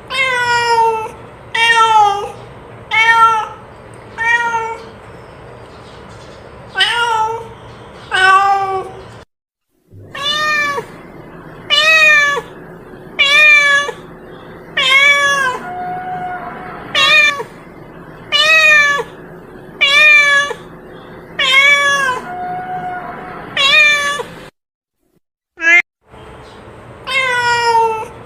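Cat meowing over and over, a steady string of short, downward-gliding meows about one every second and a half, with two brief breaks. It is a cat-lure sound meant to call a lost cat home.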